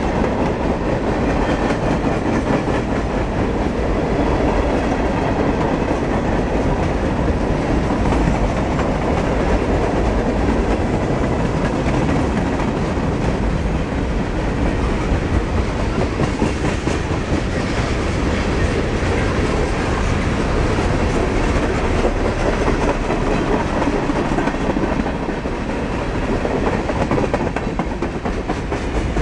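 Long freight train of boxcars and tank cars rolling past, its steel wheels clattering steadily on the rails.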